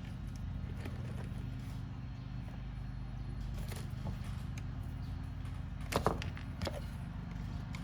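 Steady low hum with a few light clicks and knocks over it; the loudest clicks come about six seconds in.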